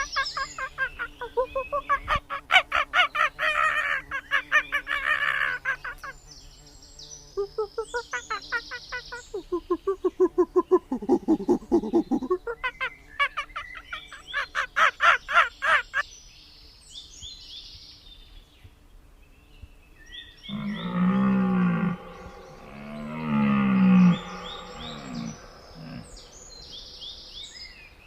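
Animal calls: several runs of rapid, stuttering pulsed calls in the first half, then two low, drawn-out calls about twenty and twenty-three seconds in, with small high chirps above them.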